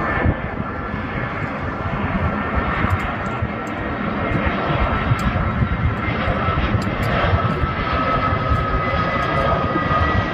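A passing airliner's engines: a steady engine noise with a high whine that drifts slowly down in pitch.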